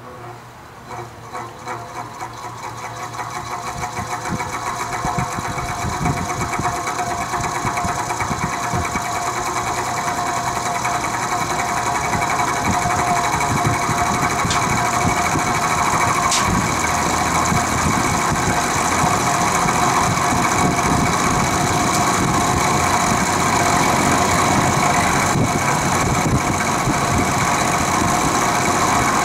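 Vintage Penncrest (rebranded Lakewood) 20-inch box fan starting on its low speed. It gets louder over the first ten seconds or so as it spins up, then runs steadily with a persistent rattle that sounds like a diesel engine. Drowning the motor bearings in WD-40 has not cured the rattle, and there is no play in the motor and no loose blade.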